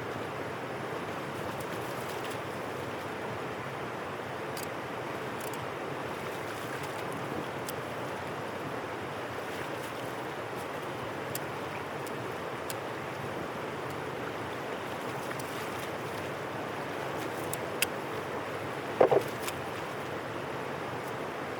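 Steady rushing of water flowing through a drain. A few faint clicks are heard, and there is a short, louder sound near the end.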